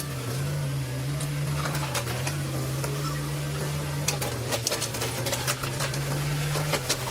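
Excavator's diesel engine running steadily, with scattered sharp clicks and knocks over it.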